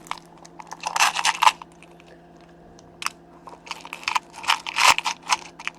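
Small screws being handled and rummaged through by hand: irregular rustling and little clicks in bunches, busiest in the second half.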